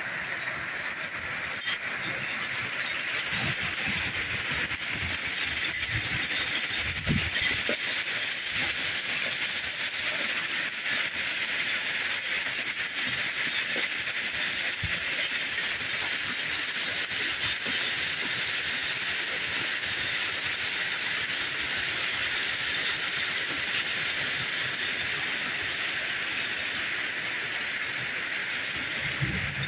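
Steady rain falling: a dense, even hiss, with a few faint knocks in the first several seconds.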